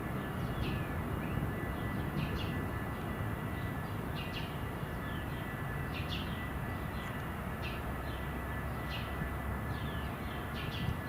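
A small bird chirping repeatedly, short falling notes about once a second, over a steady low rumble of distant engines and traffic.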